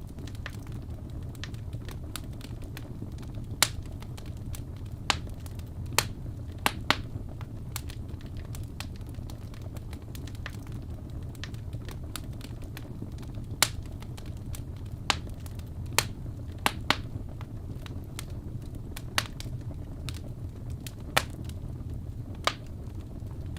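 Wood fire crackling in a fireplace: sharp pops and snaps at irregular intervals, a dozen or so, over a steady low rumble of the burning.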